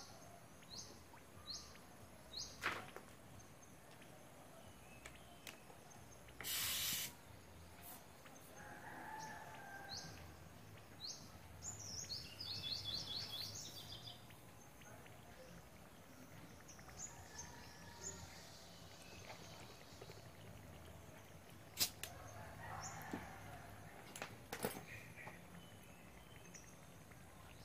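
Quiet outdoor background with a small bird chirping over and over, short high chirps about once a second and a fast trill around the middle. About six and a half seconds in there is a short, loud hiss, and a few sharp clicks come later.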